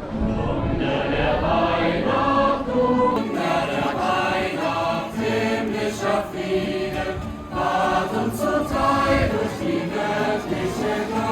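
Choir singing, several voices holding notes that shift every second or so.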